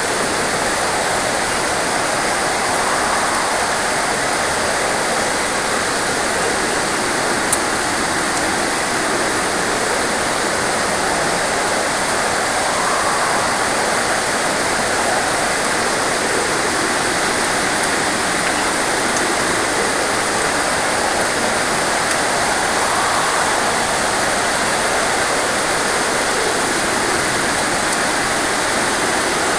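Heavy rain pouring steadily in a forest, with wind through the trees: one dense, even hiss. A single brief click comes about seven and a half seconds in.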